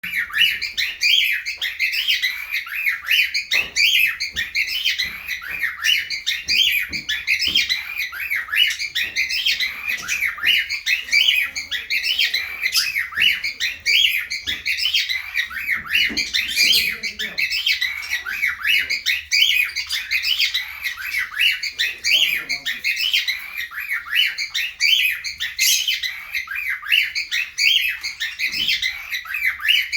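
A flock of cockatiels in an aviary chirping and calling continuously in dense, overlapping chatter. This is typical of birds in breeding mood.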